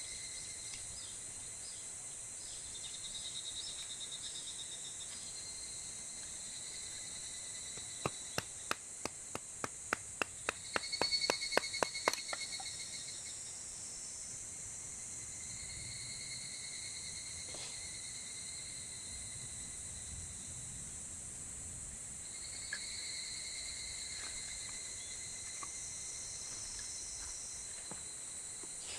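Insects chirping steadily in high, pulsing tones. About eight seconds in comes a quickening run of about twenty sharp knocks lasting some four seconds, the loudest sound here.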